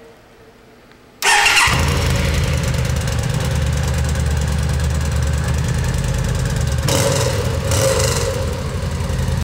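2009 Yamaha V Star 950's air-cooled V-twin engine cranked and started about a second in, then running steadily with two brief rises in engine speed near the end. It runs through an exhaust with a 1.5-inch hole drilled into it to make it louder.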